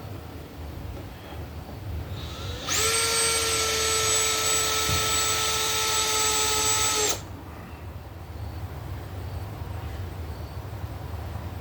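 Power drill motor spinning at a steady, high pitch for about four seconds, starting about three seconds in and cutting off suddenly. Low background noise is heard around it.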